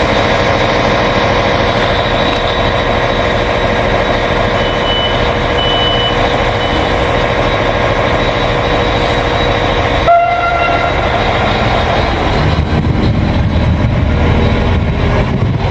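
A train running past, with a short horn toot about ten seconds in.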